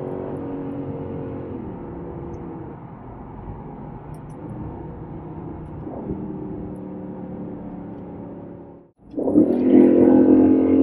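2018 Aston Martin Vantage's twin-turbo V8 heard from inside the cabin while driving: the engine note eases off in the first couple of seconds and holds steady at cruise. It drops out for a moment about nine seconds in, then comes back louder.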